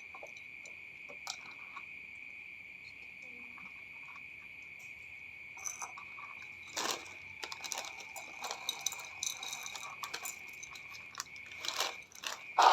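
A steady, high-pitched cricket trill, with cats crunching and chewing food from about six seconds in, the crunching louder near the end.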